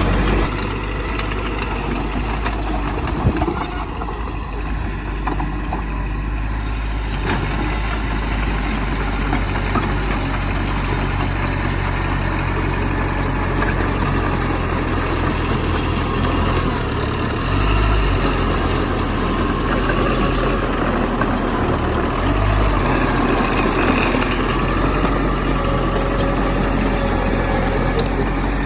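Heavy diesel earth-moving machinery running steadily, with a sharp knock about three seconds in and the engine note shifting a couple of times later on.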